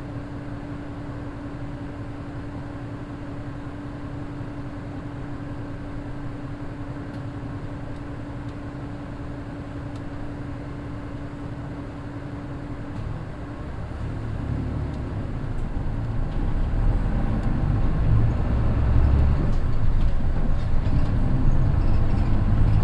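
Mitsubishi Fuso Aero Midi bus's naturally aspirated 6M61 inline-six diesel idling with a steady hum for about thirteen seconds, then growing louder and deeper as the bus pulls away under power.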